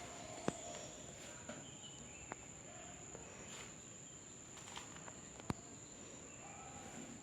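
Faint, steady, high-pitched insect trill, with a few sharp clicks during it.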